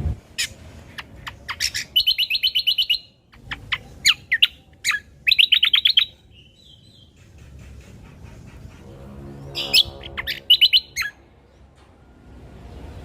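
Cucak kombo (kecial kombo) bird singing: sharp, high chip notes broken by fast rattling trills, which come in three bursts about two, five and ten seconds in.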